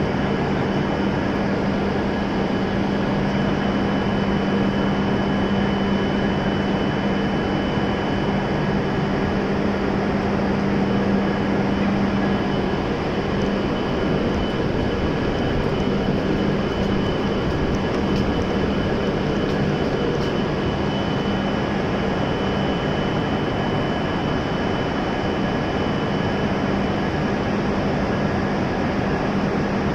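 A stationary E7 series Shinkansen train hums steadily at the platform with its doors open. A low hum and a thin high-pitched whine sit over a wash of steady noise, and the low hum eases a little about halfway through.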